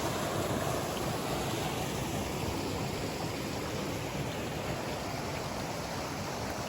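Stream water rushing steadily at a river pool.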